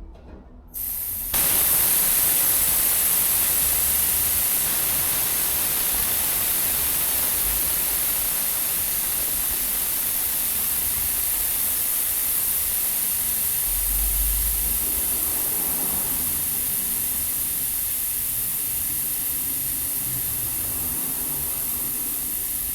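Air hissing steadily out of a car tyre's valve as the tyre is deflated so the wheel will fit onto the hub. The hiss starts abruptly about a second in and slowly weakens.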